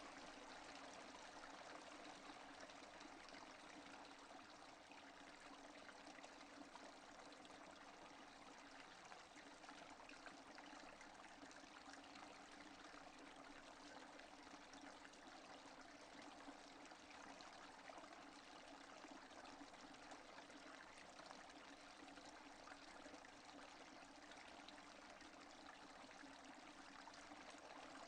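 Steady rain with no thunder, the even hiss of falling water dotted with many small drop strikes, faint throughout.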